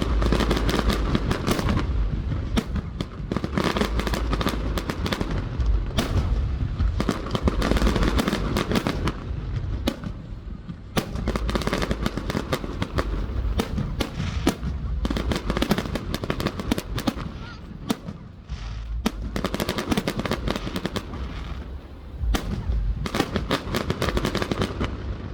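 Fireworks display: shells bursting in rapid sharp bangs and dense crackling, the barrage swelling and easing in waves.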